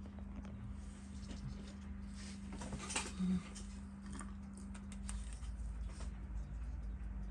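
Faint, scattered clicks and taps of small watchmaker's tools handling a watch movement, over a steady low hum.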